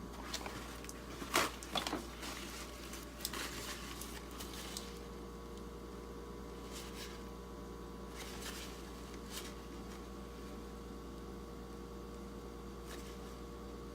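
A knife blade drawn across a leather strop in a few short, irregular swipes, most of them in the first five seconds and the loudest about a second and a half in. A steady electrical hum runs underneath.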